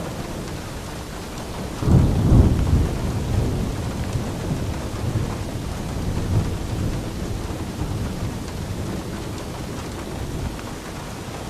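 Steady rain with a roll of thunder that breaks about two seconds in, loudest at its start, and rumbles on, slowly dying away over the following seconds.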